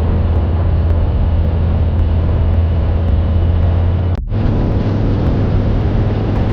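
Motorcycle on the move: a steady low engine drone mixed with wind and road noise. It cuts out briefly about four seconds in and carries on.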